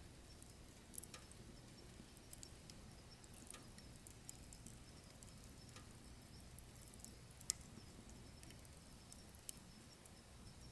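Wood fire burning in a wood stove, crackling: irregular sharp snaps over a faint low rumble, the loudest snap about seven and a half seconds in.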